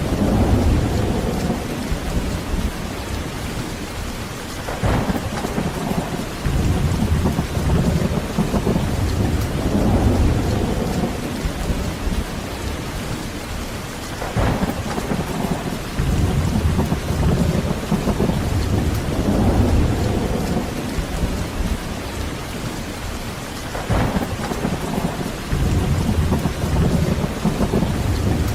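Heavy rain falling steadily through a thunderstorm. Thunder rolls in about every ten seconds, each roll opening with a sharp crack and swelling into a low rumble.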